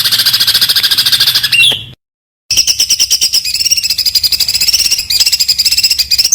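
A songbird sings a rapid, high-pitched burst of fast repeated notes, the dense 'tembakan' style of song used to tutor contest birds. The song cuts off abruptly about two seconds in and resumes half a second later with a slightly different, wavering run of notes, like two recordings spliced together.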